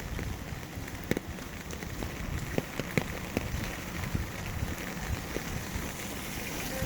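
Rain falling steadily, a constant patter with individual heavier drops tapping sharply on a hard surface every so often.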